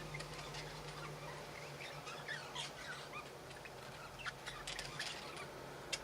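Budgerigars chattering softly: a run of faint chirps and squeaky warbles, with a couple of sharp clicks near the end, over a steady low hum.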